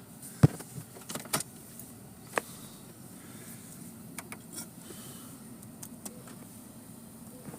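Car interior noise while driving, a steady low hum, with a few sharp clicks and knocks; the loudest comes about half a second in, and more follow over the next two seconds.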